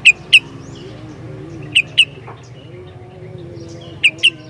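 Sooty-headed bulbul (kutilang) giving short, loud, sharp calls in quick pairs, three pairs in all, over a steady low background.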